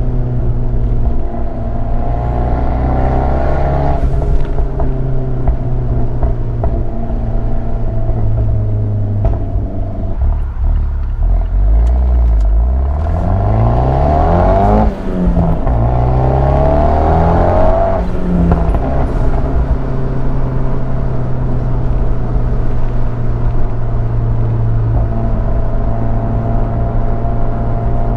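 Turbocharged 1.4-litre four-cylinder of a big-turbo Abarth 124 Spider with a Ragazzon exhaust, cruising at a steady engine note. About halfway through, the engine pulls hard and its pitch rises. A brief drop at a gear change follows, then another rising pull, before the engine settles back to a steady cruise.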